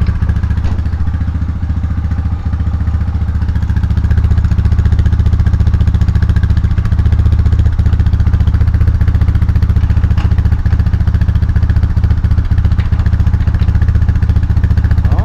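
Honda Fourtrax 300 4x4 ATV's single-cylinder four-stroke engine running steadily in gear, with a few sharp clicks or knocks scattered through.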